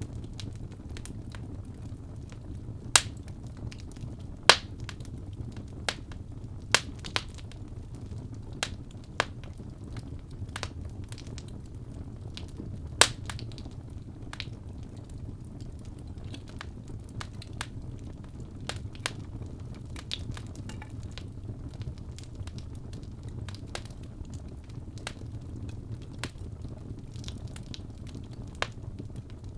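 Fire crackling in a fireplace: irregular sharp pops, the loudest about three, four and a half and thirteen seconds in, over a low steady rumble.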